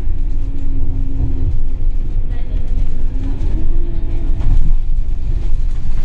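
Scania DC9 five-cylinder diesel of a Scania K280UB bus running with a heavy low rumble. Its tone sinks slowly, then climbs a little just past the middle.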